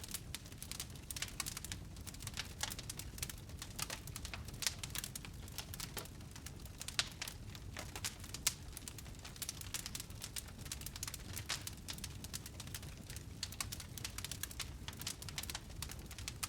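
Wood fire in a fireplace crackling, with irregular sharp pops and snaps over a steady low rumble of the burning.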